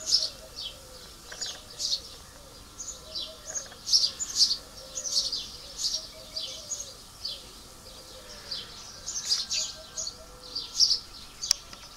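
Small birds chirping: many short, high chirps in quick clusters, with a lower call repeating underneath.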